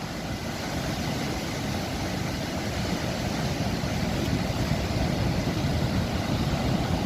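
Steady rush of sea surf with wind rumbling on the microphone, swelling slightly louder over the seconds.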